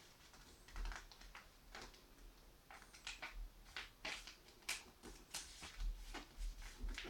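A sheet of paper being handled and folded: irregular crisp rustles and creases, with a few soft low bumps.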